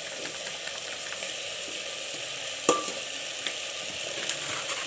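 Vegetables and spices sizzling as they fry in oil in a pressure cooker, with one sharp clink of a metal spoon against the pot about two and a half seconds in.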